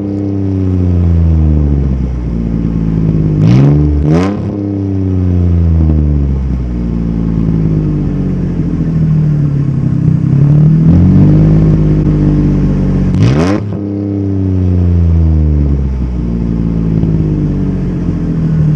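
Jeep Grand Cherokee WK's 3.7 L V6 running through a straight pipe in place of the muffler, catalytic converters kept, with the engine speed rising and falling as it drives. Several quick sharp rises in pitch come near the start, about four seconds in and about thirteen seconds in.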